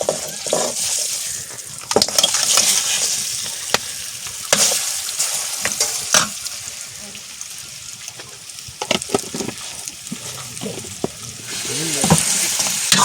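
Food sizzling in a hot pan while it is stirred, with the utensil clicking and scraping against the pan at irregular moments.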